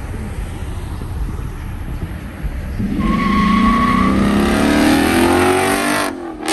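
A car's engine rumbling low, then revving hard about three seconds in as it accelerates away, its note rising steadily, with a brief tyre squeal. The sound cuts off suddenly near the end.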